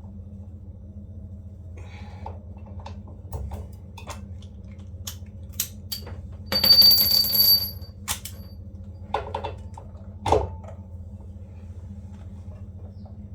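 Scattered clicks and knocks of handling hard objects over a steady low hum, with a loud ringing metallic clatter lasting about a second, about seven seconds in, and two shorter clatters later.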